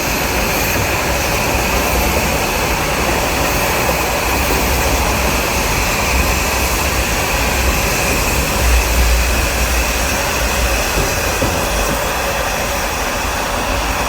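Nilgiri Mountain Railway train running along the track: a loud, steady rumble and rattle of the moving carriages, swelling briefly about nine seconds in.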